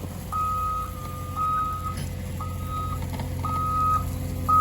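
Backup alarm on heavy recovery equipment beeping steadily, about one half-second beep each second, over the steady low hum of a running heavy engine.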